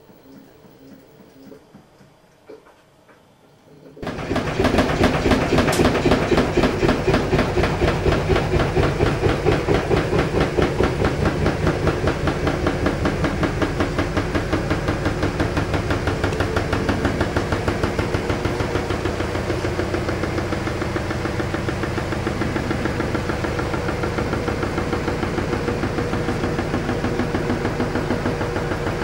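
LG washing machine giving its fault noise: a loud, rhythmic vibrating rattle that starts suddenly about four seconds in, pulses a few times a second and eases slightly toward the end.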